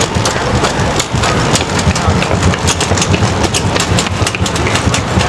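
Loud street noise: a steady low rumble, like passing traffic, under a haze of noise and many short clicks and knocks.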